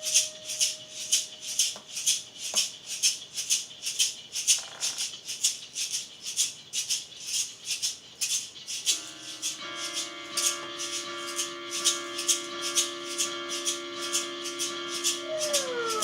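Improvised experimental electronic music: a steady shaker-like hiss pulses at two to three strokes a second. Held drone tones come in about nine seconds in and begin to warble up and down near the end.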